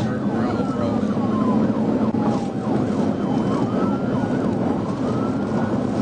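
Police cruiser siren wailing in slow rising and falling sweeps, with quicker short sweeps overlapping it, over a steady low rumble of engine and road noise during a high-speed pursuit.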